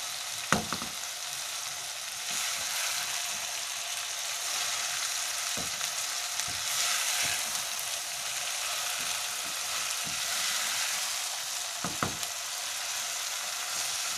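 Cut okra with tomato and onion frying in a nonstick wok, a steady sizzle as a spatula stirs it, with a few clacks of the spatula against the pan, the sharpest about half a second in and another near the end.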